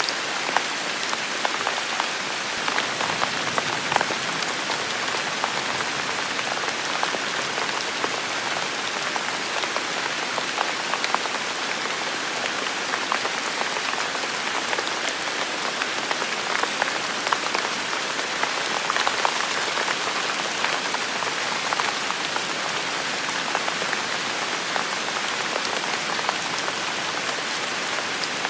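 Heavy rain falling steadily in a forest, an even hiss with many individual drops pattering close by.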